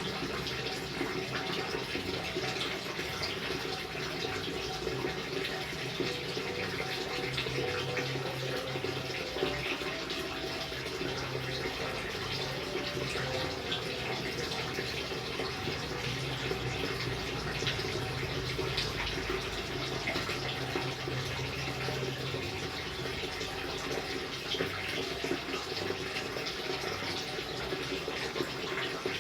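Steady rain: a dense patter of drops over an even hiss of falling water.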